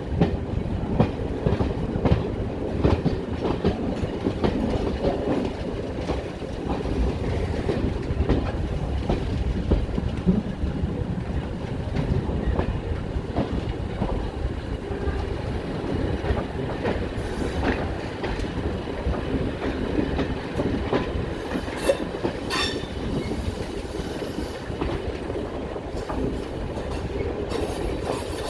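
Train running steadily along the track, with a continuous low rumble and the clickety-clack of wheels over rail joints.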